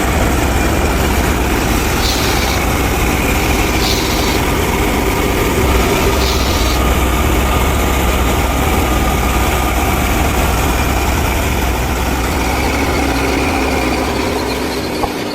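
Miniature tractor and thresher running steadily, with an engine-like low rumble. Three short hissing bursts come about two seconds apart early on, and the sound eases off slightly near the end.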